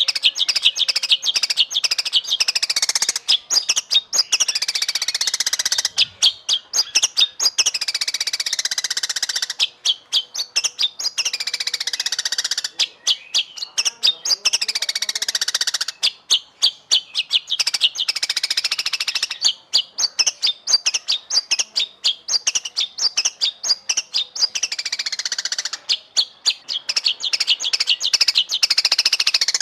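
White-rumped shama singing continuously: rapid strings of sharp chips and clicks mixed with falling whistled phrases, in bursts broken by short gaps every few seconds.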